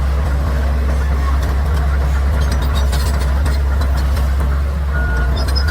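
Bulldozer's diesel engine running steadily with a deep, loud drone and scattered light clanks. Near the end a reversing alarm starts up with short, evenly spaced beeps.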